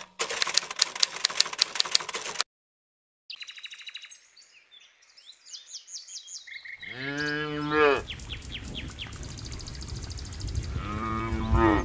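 Countryside morning ambience. A fast, even run of clicks lasts about two seconds and stops. After a short gap, birds chirp, then a cow moos with a long low call about seven seconds in and again near the end, over a low rumble.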